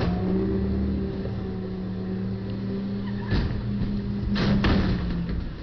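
Engine running at a steady pitch. It is broken by a sudden knock about three seconds in and a louder burst of noise a second later.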